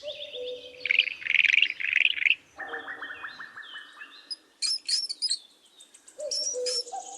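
Birds chirping and trilling in short phrases, several different calls one after another, with a brief lull shortly before the end.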